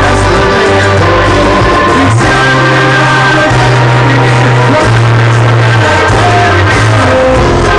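Cuarteto band music: a loud instrumental passage with a strong bass line holding long notes under sustained melody lines.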